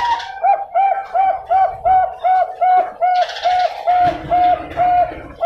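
Bangkok-strain zebra dove (perkutut) singing: a long, even run of short cooing notes, about three a second.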